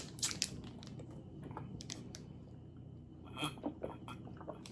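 Close-up mouth sounds of a person chewing a bite of Italian beef sandwich: soft wet smacks and small clicks, a little louder about three and a half seconds in.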